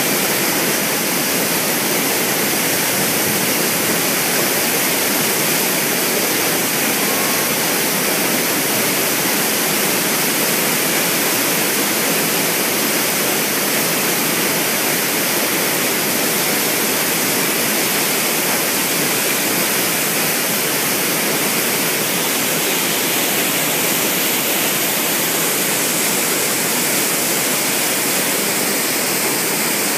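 Water released from a dam in a test discharge, pouring out as a loud, steady, unbroken rush.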